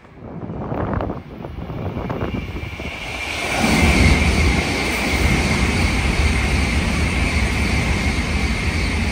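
Shinkansen bullet train running through the station at speed without stopping: a rush of air and rail noise that builds over the first three or four seconds and then holds loud, with a steady high whine running through it.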